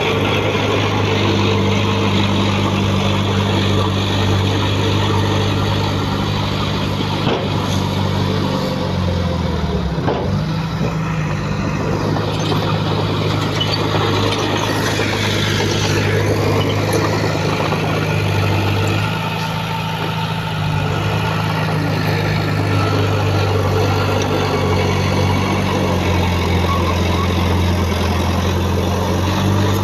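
Heavy diesel engine running steadily, with a brief change in pitch about nine to eleven seconds in.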